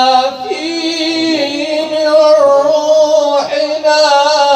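A male Quran reciter's voice in melodic tajwid recitation, drawing out long held notes. The pitch steps up about half a second in, and there is a short break for breath or a new phrase about three and a half seconds in.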